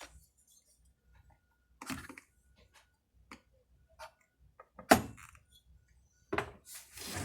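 Hands working a hose through a chainsaw's engine parts: scattered small clicks and knocks, the sharpest about five seconds in, then a rubbing, scraping noise near the end.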